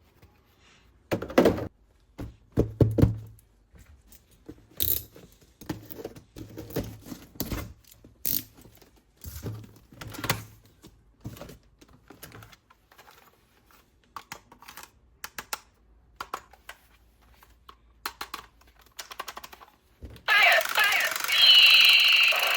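Plastic toy pieces and packaging being handled: irregular clicks, taps and knocks with short pauses between them. About twenty seconds in, a louder continuous sound with a high whine takes over.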